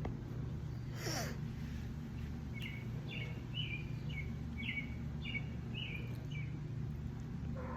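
A bird chirping a run of about eight short notes, roughly two a second, over a steady low background rumble.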